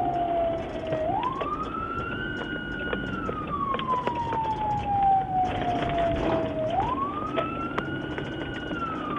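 Emergency vehicle siren sounding a slow wail. Twice it rises quickly, holds high for about two seconds, then falls slowly.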